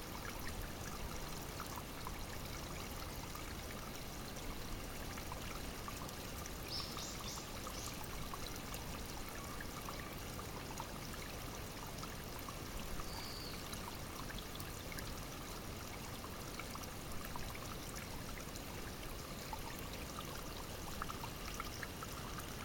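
Small spring-fed brook babbling and trickling steadily. Brief high chirps sound twice, about a third of the way in and again past halfway.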